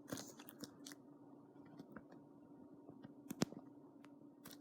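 Quiet pause filled by a faint steady low hum and a scattering of small clicks, with one sharper click about three and a half seconds in.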